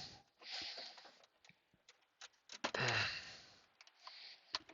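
A man breathing out heavily, a short breath near the start and a louder sigh about three seconds in, with a few light clicks and taps scattered between them.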